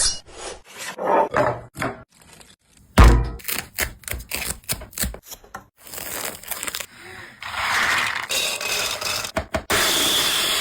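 Kitchen food-preparation sounds: a run of short knocks and scrapes, a heavy thunk about three seconds in, then a steady hiss for the last few seconds. The sounds start and stop abruptly, as if cut together.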